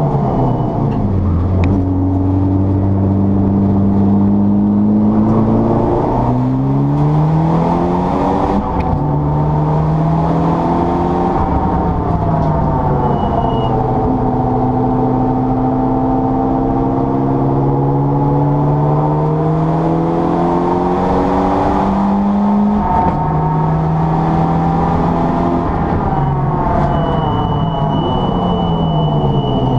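Mitsubishi Lancer Evo 6 Tommi Mäkinen Edition's turbocharged four-cylinder engine being driven hard on track, its pitch climbing through the gears and dropping sharply at each shift, then falling and rising again through slowing and accelerating. A thin high whistle comes in briefly midway and again near the end.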